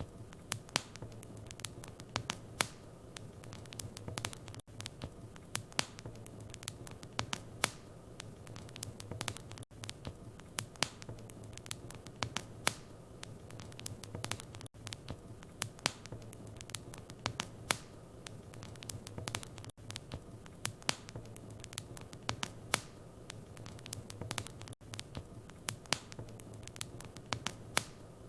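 Wood fire crackling in a fireplace: frequent sharp pops and snaps over a soft steady hiss, with a low steady hum underneath. Brief dropouts come about every five seconds.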